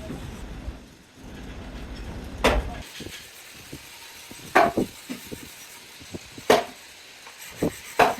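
Four loud, sharp knocks about two seconds apart, with lighter knocks between them, over a low rumble that stops about three seconds in.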